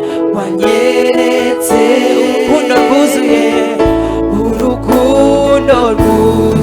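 Gospel worship song: a voice singing with instrumental accompaniment, a deep bass coming in about four seconds in.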